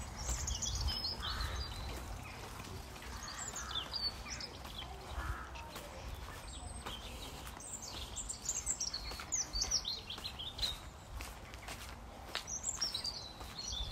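Small songbirds chirping and singing in short, high, falling phrases, in several bouts, over a low outdoor rumble and faint steps of someone walking.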